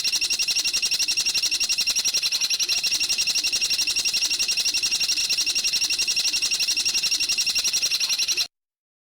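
A bird's rapid, evenly pulsed rattling trill, about a dozen notes a second, repeating without a break and cutting off abruptly near the end.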